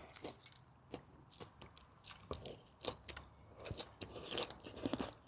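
People biting into and chewing a taco salad topped with crunchy lime tortilla chips: a string of short, irregular crunches.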